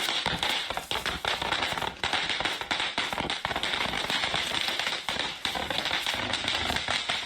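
Firecrackers going off in a rapid, continuous crackle of many small pops.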